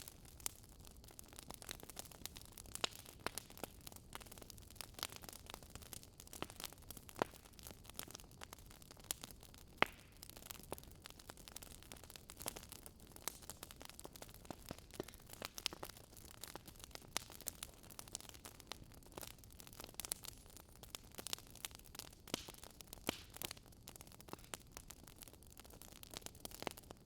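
Faint wood fire crackling: irregular sharp pops and snaps, several a second, over a soft hiss.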